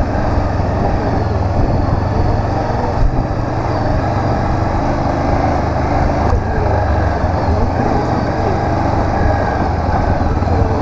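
Honda CB500X parallel-twin engine running steadily under way, with wind and road noise over the rider's microphone.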